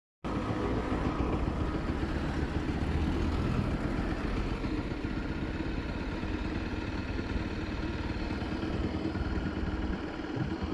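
Bajaj Pulsar NS200 motorcycle's single-cylinder engine running steadily.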